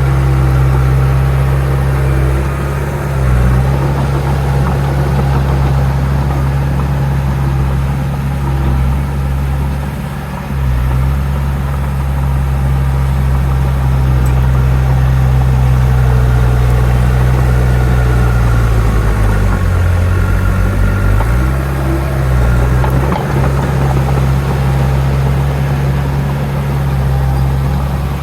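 Heavy diesel engine of earthmoving machinery running steadily at a low pitch. Its note dips briefly a few times and drops lower for about two seconds around two-thirds of the way in, as the load changes.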